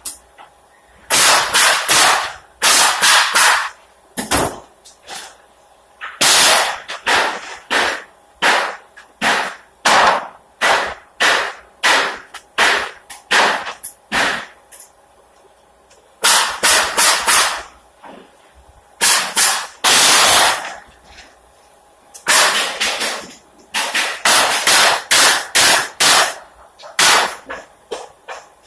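Pneumatic nail gun firing nails into pallet boards: a rapid series of sharp shots, two or three a second, in clusters broken by short pauses.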